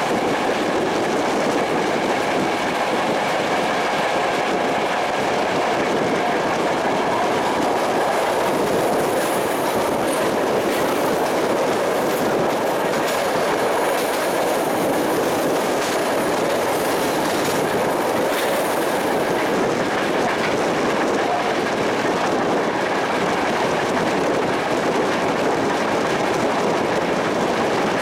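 Passenger train running steadily along the track, heard from a carriage window: a continuous rumble of wheels on rails with clickety-clack over the rail joints. A faint high whine comes in for several seconds midway.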